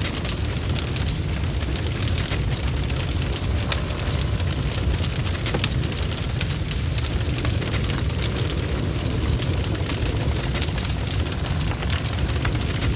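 Wood fire burning: a steady low rumble of flames under many small, sharp crackles and pops.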